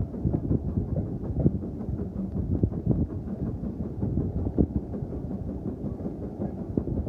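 Railway carriage running along the track: a steady low rumble with frequent irregular knocks and rattles.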